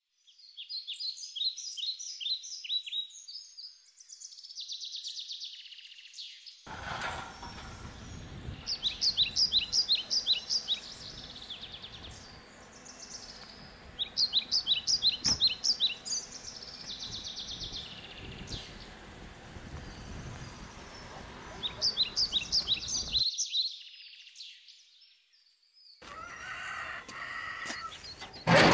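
A songbird singing in repeated phrases of quick, high chirps, several times over, with a steady outdoor background hiss under much of it. A sudden loud knock comes right at the end.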